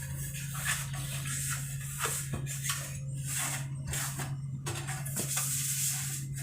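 Repeated short rubbing and rustling sounds, with an occasional light knock, from hands wiping and handling containers in a refrigerator being cleaned, over a steady low hum.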